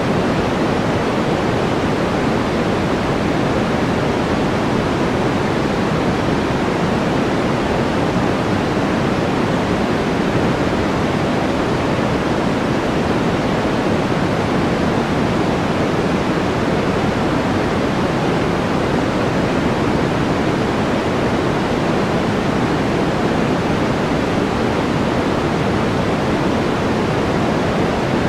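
Steady white-noise track: an even, unchanging rushing hiss.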